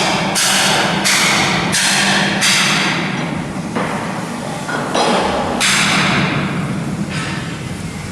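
Shipyard steel work: a string of loud, sharp-starting noisy bursts, each about half a second long, coming in quick succession at first and again from about five seconds in, over a steady low hum.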